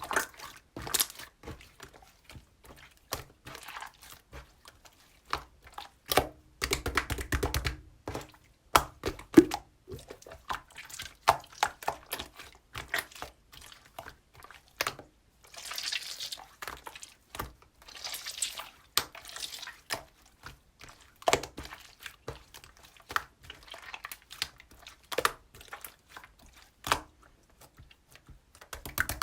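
Slime being squeezed, folded and poked by hand, giving irregular sticky clicks and pops with a few longer squelching stretches.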